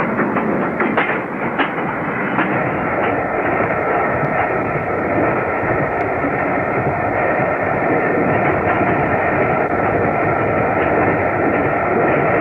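Steam locomotive, the LNER A3 Flying Scotsman, running with its passenger train: a steady rushing noise of train on the move, with a few sharp clicks in the first few seconds.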